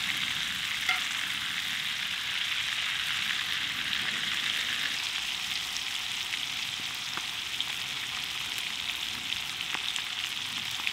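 Pigeon breasts frying in melted garlic butter on a cast-iron Dutch oven lid: a steady sizzle with small scattered pops.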